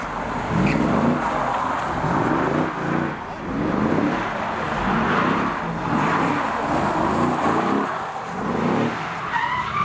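A drifting car's engine revving hard and dropping back again and again, about once a second, over a steady rushing noise.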